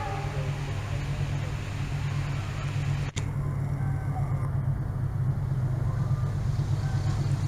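Steady low rumble of a train running, with an abrupt cut about three seconds in, after which the rumble goes on with less treble.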